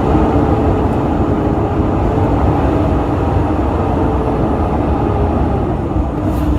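Fire engine's diesel engine running with a steady low rumble and a faint droning tone that steps down in pitch near the end.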